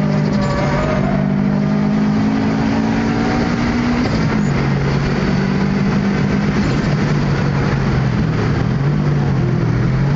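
Tuned 2004 Subaru Impreza WRX turbocharged flat-four, about 316 kW at the wheels, running hard under load, heard from inside the cabin. The revs climb steadily, drop sharply at an upshift about four seconds in, then hold high with a brief dip and rise again near the end.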